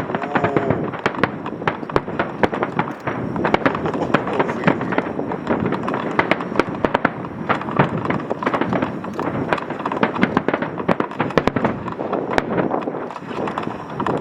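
Fireworks crackling and popping densely, many small reports in quick succession without a break, over the murmur of a crowd.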